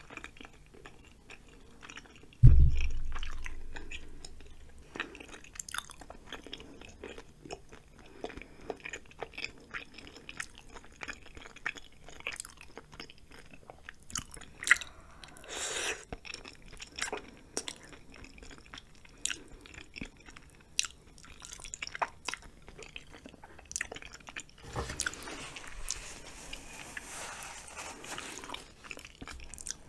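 Close-miked chewing of cheesy spicy ramen noodles and chewy rice cakes: wet mouth clicks and smacks throughout. A heavy low thump comes about two and a half seconds in, and there are longer noisy stretches about halfway and near the end.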